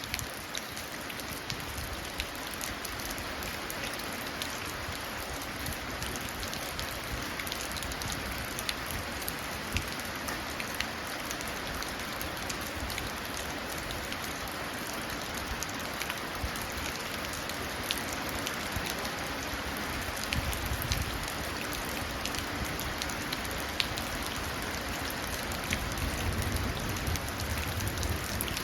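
Steady rain pouring and splashing into a puddle, with many separate drops ticking sharply. A low rumble of thunder comes in near the end.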